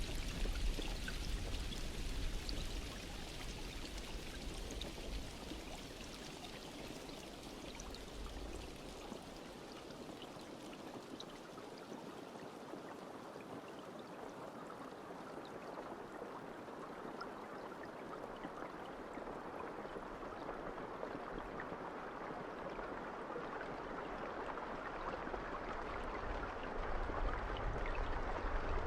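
Rain falling steadily as an even hiss of drops. It eases after the first few seconds and grows heavier again near the end.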